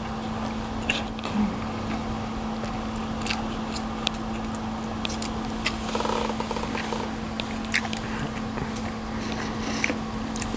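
A person chewing a mouthful of stir-fried noodles, with many short wet mouth clicks and smacks over a steady low hum.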